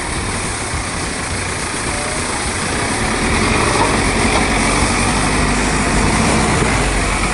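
GAZ Sobol 4x4 van driving over a snowy track, its engine and running gear making a steady noisy drone that grows louder about three seconds in.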